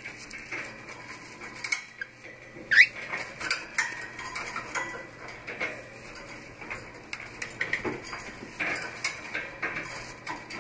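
Lutino cockatiel preening close up: quick clicks and nibbling of the beak through the feathers, with rustling. One short rising chirp comes about three seconds in and is the loudest sound.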